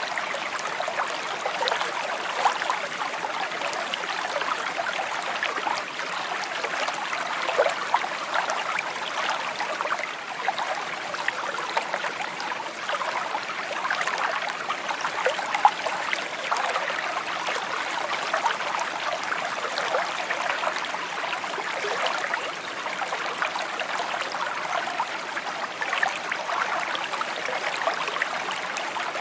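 A brook flowing and babbling steadily, with gentle trickling and bubbling.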